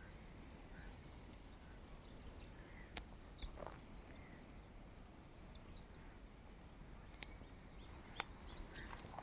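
Faint outdoor ambience with small bird chirps scattered through, high and brief, and a few sharp clicks.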